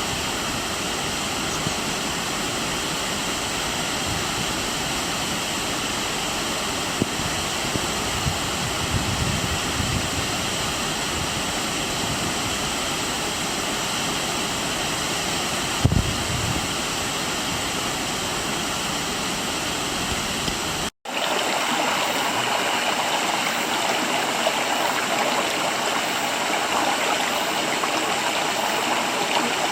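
Waterfall water rushing steadily. About two-thirds of the way through, a sudden break leads to a second, brighter and slightly louder rush of falling water. Just before that break there is a brief low thump.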